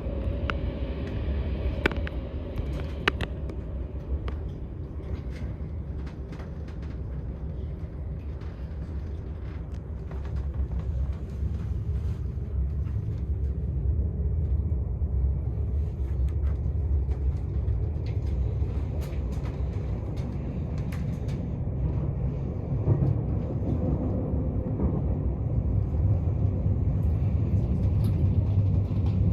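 Train running: a steady low rumble with a few sharp clicks early on, growing louder near the end.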